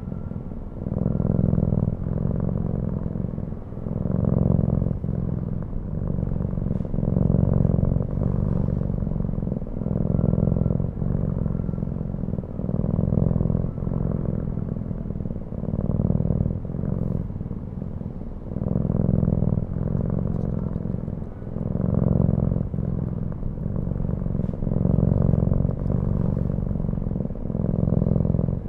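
Cat purring close to the microphone: a low, rapid rumble that swells and eases in a steady rhythm about every second and a half as it breathes in and out.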